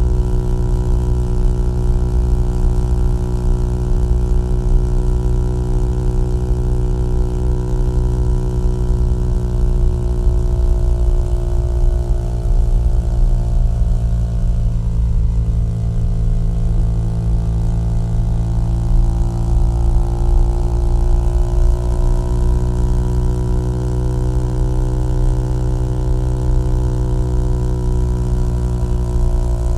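Small-displacement motorcycle engine and exhaust running steadily at cruising speed, the engine note easing down a little midway and picking back up.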